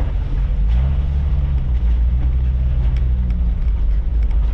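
Jeep Cherokee XJ engine running under way, a steady low drone whose pitch shifts up and down a little, with road rumble.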